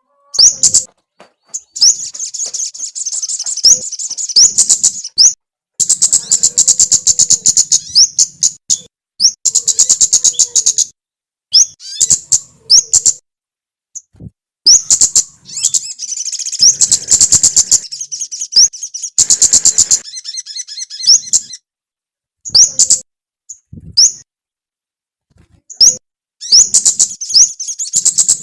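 A small songbird singing a rapid, high, sharp chattering song that comes in bursts of one to a few seconds, each cut off by a short pause.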